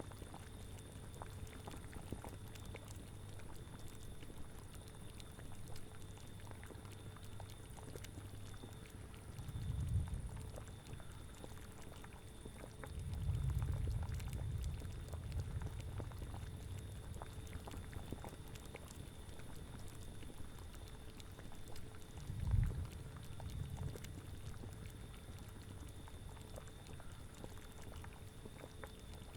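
Cauldron bubbling at a steady boil: many small pops over a soft hiss. Three low swells rise under it: one about a third of the way in, a longer one just after, and a short one about three-quarters through.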